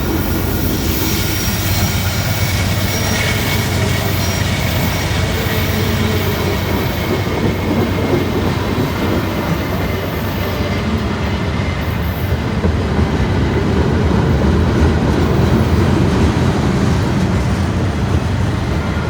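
Freight train cars rolling steadily past, a continuous rumble of steel wheels on rail with faint high wheel squeal.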